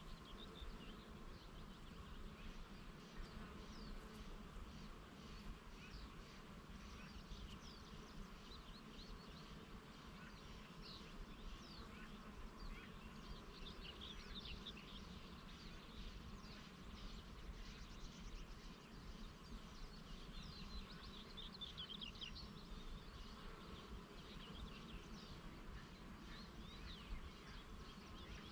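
Bees buzzing in a steady low hum while small birds chirp in quick, dense twitters throughout. A low wind rumble sits underneath.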